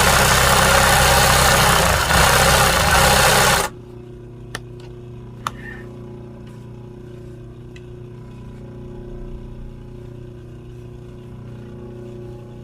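Sewing machine stitching embroidery at speed for a few seconds, then cutting off suddenly. A low steady hum remains, with a couple of sharp clicks.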